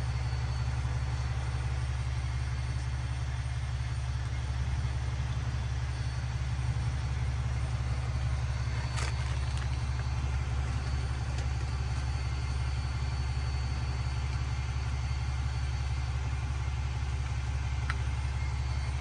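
Semi truck's diesel engine idling steadily, a constant low drone, with rain falling. One short click about nine seconds in.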